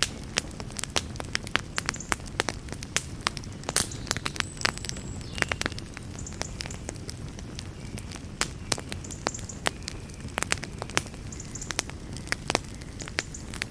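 Campfire crackling: irregular sharp crackles, several a second, over a steady low rumble of the flames.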